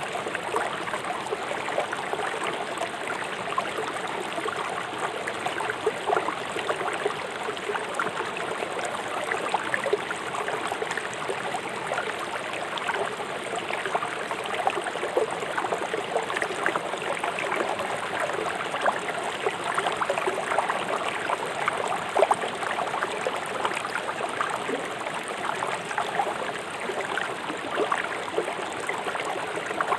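Swift river water rushing over rocks in its bed, a steady rush full of small splashes and gurgles.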